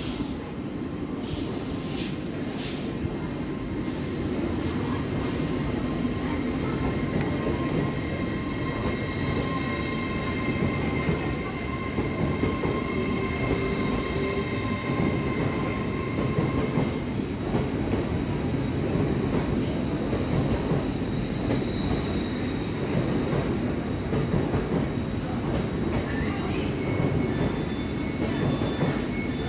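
LNER Azuma (Class 800/801) train running slowly along the platform: a steady rumble of wheels on rail with a few clicks in the first seconds. A thin high whine runs with it and stops a little past halfway.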